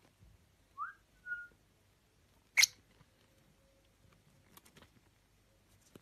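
Pet parrot giving two short whistles, the first rising and the second held level. A loud sharp click follows, with a few softer clicks near the end.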